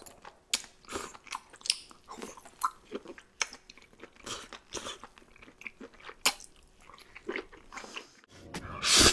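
Close-miked eating: wet chewing, biting and sharp mouth clicks as a long strip of sauced food is pulled in with chopsticks and chewed. A louder rushing noise swells near the end.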